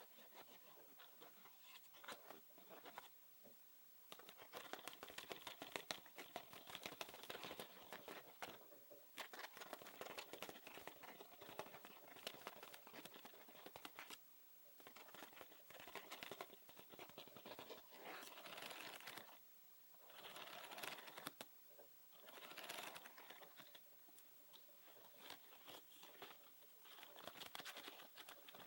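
Soft close-miked scratching and tapping, coming in bursts of a second or two with short pauses between.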